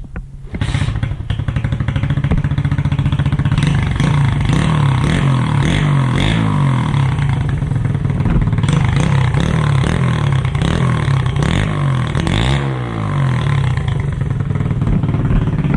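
SSR 125 pit bike's single-cylinder four-stroke engine running through a newly fitted aftermarket exhaust, starting up about half a second in and idling loudly, with the throttle blipped several times so the pitch rises and falls.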